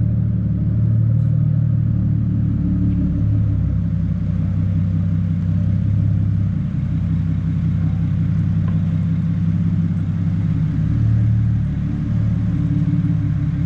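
Single-turbo BMW 135i's N54 inline-six running steadily on the dyno at a constant low pitch, with no revving, its level swelling slightly now and then.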